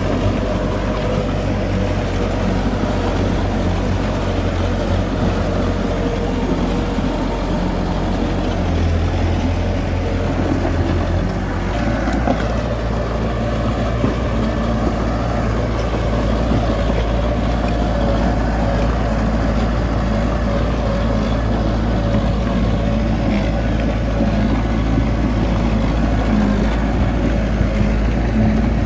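Diesel engine of heavy earthmoving machinery running steadily. Its low note drops about twelve seconds in, as the engine changes speed or load.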